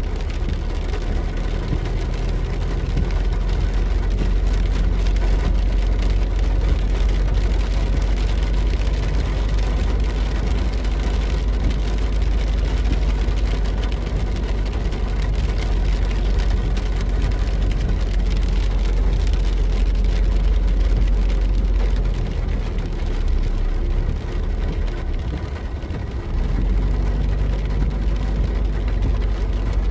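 A car driving, with a steady rumble of engine and road noise that eases for a few seconds about three-quarters through.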